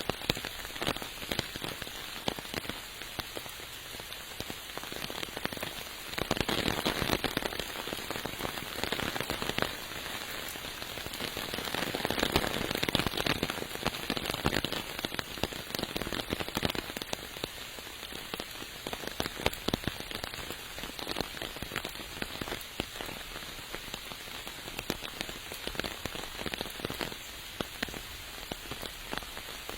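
Steady rain falling, with a dense patter of individual drops striking surfaces over a constant hiss. It grows heavier for a few seconds about six seconds in and again around twelve seconds in.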